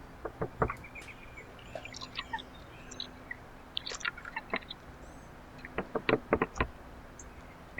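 Birds at a backyard seed feeder: irregular clusters of sharp taps and knocks from pecking, with short high chirps. The densest run of knocks comes a little after the middle.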